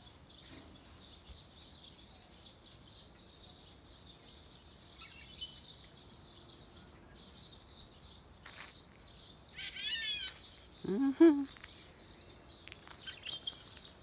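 Wild birds singing and chirping over a steady high-pitched outdoor chorus. About ten seconds in one bird gives a quick run of repeated notes, followed at once by a short, loud, lower pitched call.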